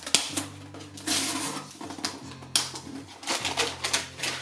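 Irregular sharp clicks and crackles of material being cut and handled close by, while making a homemade fig picker.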